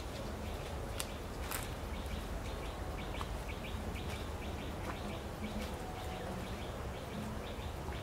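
Small birds chirping in quick series of short calls, over a steady low rumble on the microphone. A couple of sharp clicks come about a second in.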